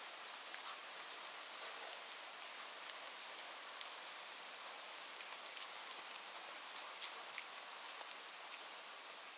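Steady rain falling, a fairly faint hiss with many single drops ticking sharply through it.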